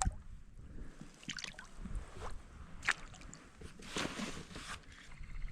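Small drips and splashes of water with scattered light knocks and handling noises on a kayak, over a low steady rumble.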